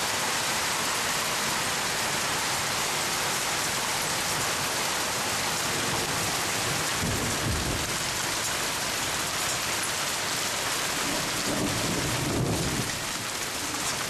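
Rain falling steadily, with a low rumble of thunder about halfway through and a longer one near the end.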